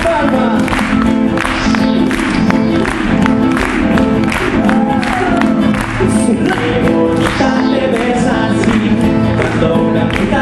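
Live band performing a song, with singing over sustained instruments and a steady beat.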